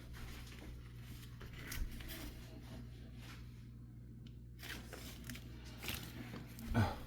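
Faint rustling and light clicks of sailcloth and rope being handled, over a low steady hum, with a brief near-silent gap a little after the middle.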